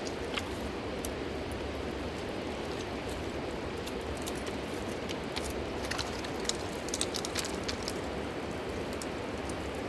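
Fast-flowing mountain river rushing steadily, with a scatter of small sharp clicks, most of them between about six and seven and a half seconds in.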